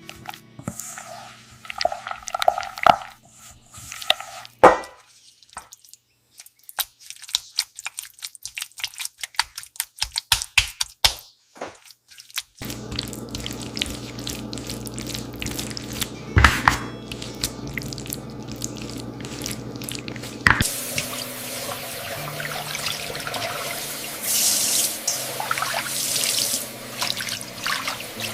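Water dripping and running, with scattered clicks and knocks of kitchen handling, in several short edited segments.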